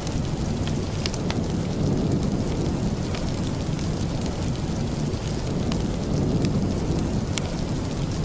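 Steady rain with a low, continuous rumble underneath and scattered sharp ticks.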